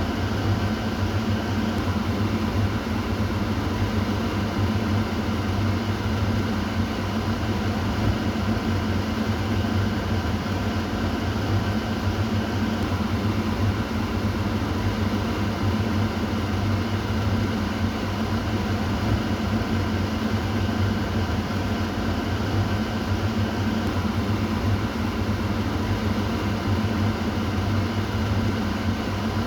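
Kitchen exhaust fan running steadily: a constant low motor hum with an even airy rush over it.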